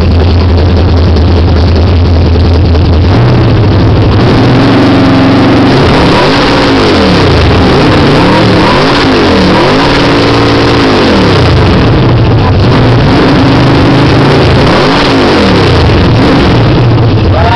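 Classic Ford Mustang engine revved repeatedly through its exhaust in a muffler rapping contest. It drones steadily at first, then from about four seconds in climbs and falls in pitch again and again, a rev roughly every two seconds.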